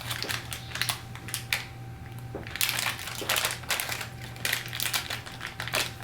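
A plastic blind-bag packet being crinkled and torn open by hand: a run of irregular crackles.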